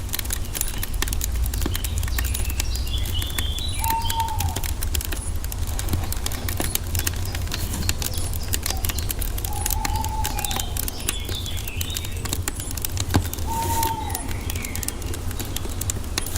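Wood fire crackling steadily over a low rumble, with a bird calling three times: short whistled notes that fall at the end, about four, ten and fourteen seconds in. A few higher chirps sound near the first and second calls.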